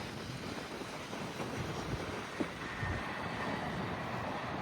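Freight train of auto rack cars rolling past with a steady rumble, and one short knock about two and a half seconds in.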